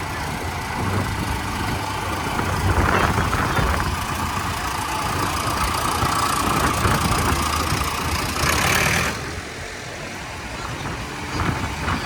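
Tractor engines running with a low rumble as the parade tractors pass. A hiss over the engines cuts off suddenly about nine seconds in.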